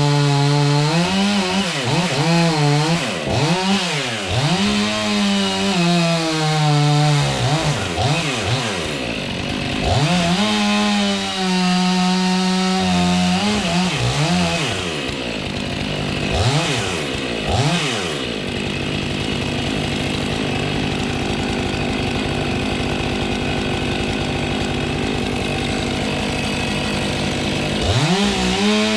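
Two-stroke chainsaw revving up and down repeatedly, then running steadily at a lower pitch for about ten seconds as it cuts into the tree, and revving again near the end.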